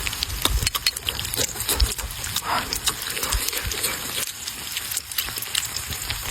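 A person chewing fried tofu noisily close to the microphone, with irregular wet smacking and small crunchy clicks.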